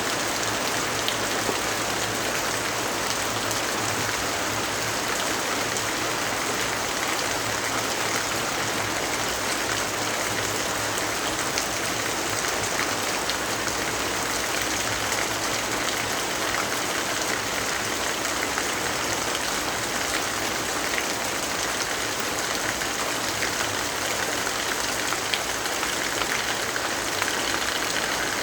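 Steady rainfall: an even hiss of rain with fine patter of drops, unchanging throughout.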